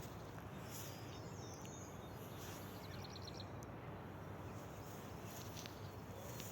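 Outdoor ambience: a steady, faint background hiss with small birds calling now and then, including a quick run of about six high chirps around the middle.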